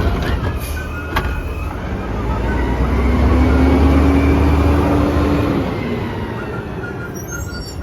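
Garbage truck engine running, swelling louder over a couple of seconds with a deep rumble and a steady droning tone, then fading away.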